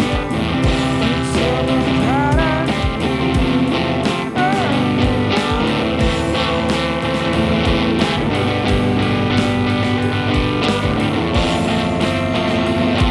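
Rock band playing live in a rehearsal room: drum kit beating steadily under electric guitars and bass guitar, with a melody line that slides and bends in pitch. The mix is lopsided, the lead guitar set too loud and the bass too quiet.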